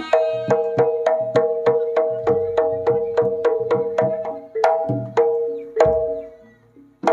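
Javanese jaranan gamelan music: an even beat of drum strokes and struck metal gong-chime tones, about three strokes a second. It dies away about six seconds in and starts again near the end.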